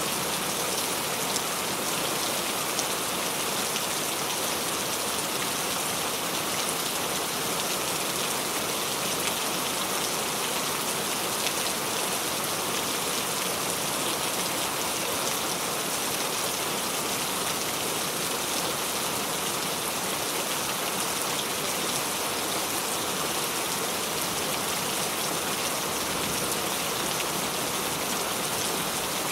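Steady rain falling, a dense even hiss of raindrops with fine patter. It holds the same level throughout, with no thunder or speech.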